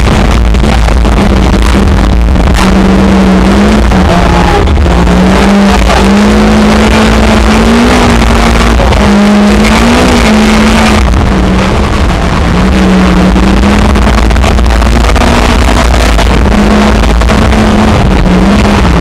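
Lexus IS200 rally car's engine running hard at speed, heard from inside the cabin over heavy road and wind noise. The engine pitch holds high and wavers a little up and down with the throttle.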